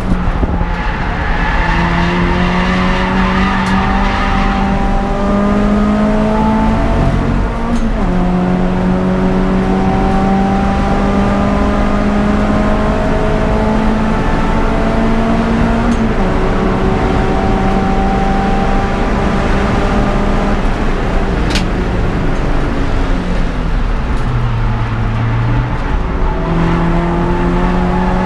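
Peugeot 206 GTI's 2.0-litre four-cylinder engine under race load, its revs climbing slowly and dropping sharply about 8 and 16 seconds in. Near the end the revs fall low, then pick up again.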